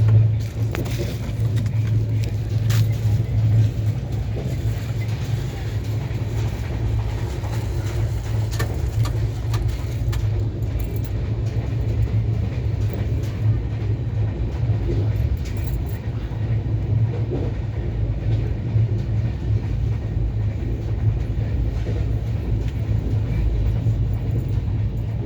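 Steady low rumble of a passenger train running, with a few faint clicks.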